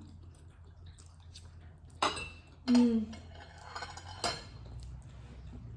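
Forks clinking and scraping on plates during a meal of spaghetti, with sharper clinks about two seconds and about four seconds in.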